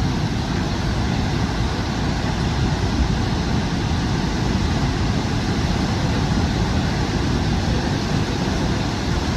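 Niagara Falls: a steady, rushing roar of falling water, heaviest in the low end.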